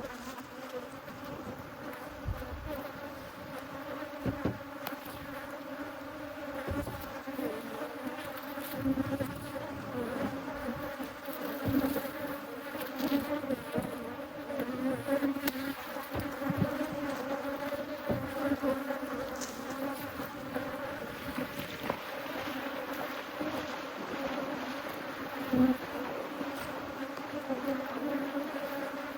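Many honeybees buzzing around their hives in a steady drone, with a few sharp knocks, the loudest about three seconds before the end.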